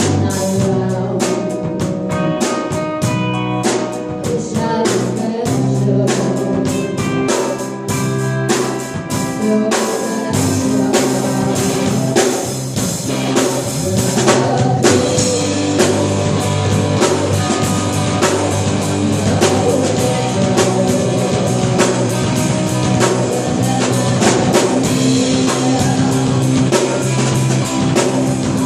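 Live cover band playing a rock song: a drum kit keeps a steady beat under electric guitar, with the cymbals growing louder about halfway through.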